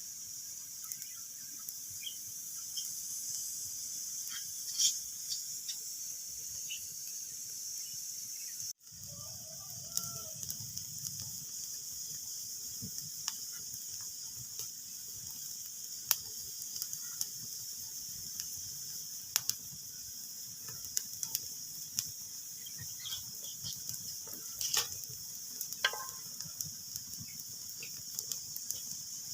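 Wood fire crackling in a fireplace: a steady hiss with irregular sharp pops and snaps. The sound cuts out for a moment about nine seconds in.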